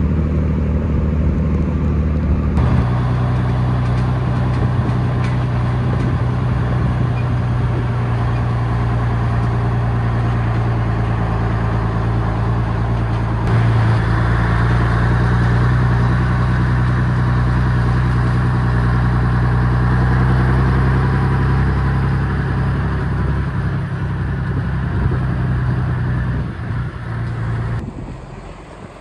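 Road vehicle's engine running under load as it pulls away. The engine note steps up about two and a half seconds in, gets louder about halfway, then eases off near the end.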